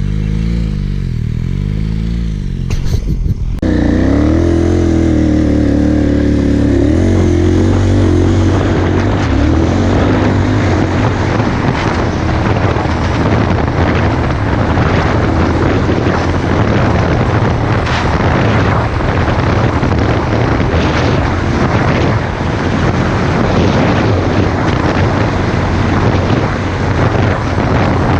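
KTM 990 Adventure's LC8 V-twin engine running under way, with a rush of wind noise. About three and a half seconds in it gets much louder as the bike opens up, its pitch rising over the next few seconds, then it holds a steady pull.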